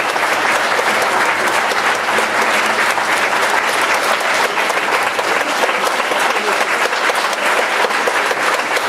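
Theatre audience applauding steadily, a dense, continuous clapping.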